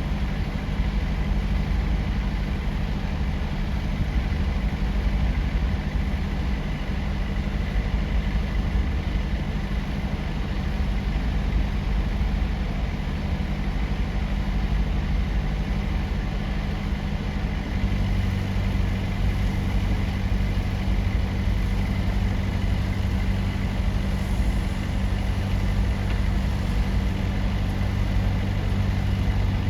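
Steady low hum of large diesel engines running at a constant speed, with a deeper tone coming in strongly about two-thirds of the way through.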